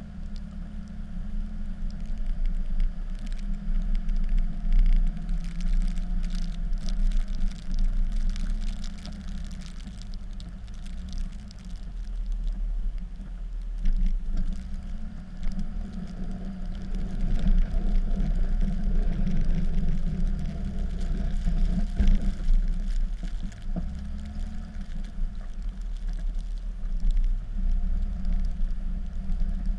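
Dodge pickup's Cummins inline-six turbodiesel running under load while plowing snow, its level rising and falling every few seconds, with scratchy crackling noise over it.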